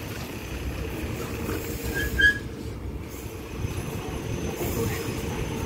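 Diesel passenger train running in at the station, a steady low rumble with a brief high brake squeal about two seconds in.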